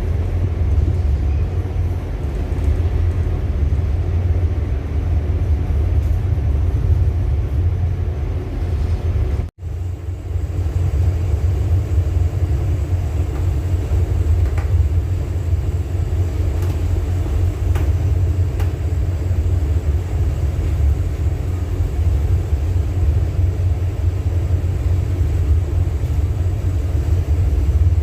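Steady low rumble aboard a ship in rough seas, cut off for a split second about ten seconds in.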